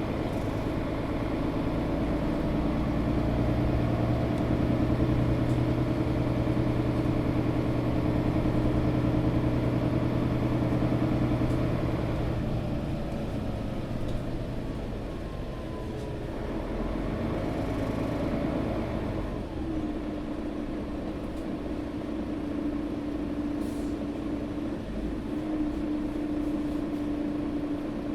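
Inside a Mercedes-Benz O530 Citaro G articulated city bus on the move: the diesel engine and drivetrain run with steady hums whose pitch shifts about twelve and again about twenty seconds in, as the bus changes speed.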